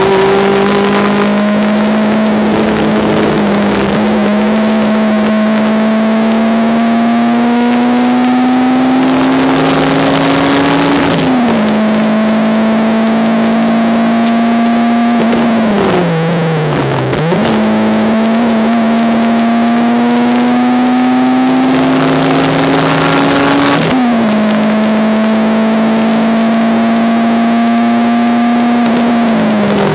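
Honda Civic race car engine heard from inside the car at speed, its pitch climbing slowly under throttle and dropping back at gear changes about a third of the way in and again near the end. About halfway through it falls in several quick steps as the car brakes and downshifts, then climbs again. The recording is poor and harsh-sounding.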